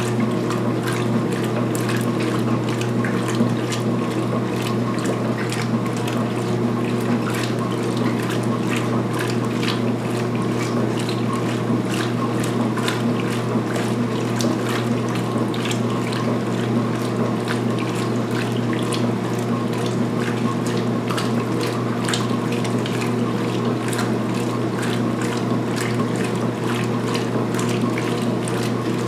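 2016 Speed Queen top-load washer agitating a load of towels at high speed during the pre-wash. Its motor and drive give a steady low hum under continuous water sloshing.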